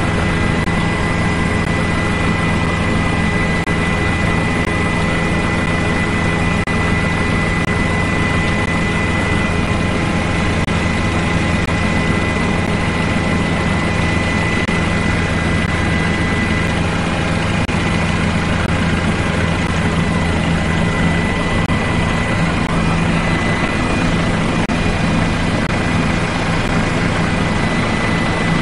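Steady aircraft engine noise, loud and unchanging, with a thin steady whine above it.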